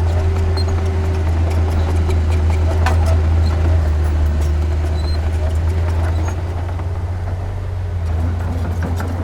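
Diesel engine of heavy earthmoving machinery running with a steady low drone, with scattered clicks and clanks over it. The engine eases off a little about six seconds in.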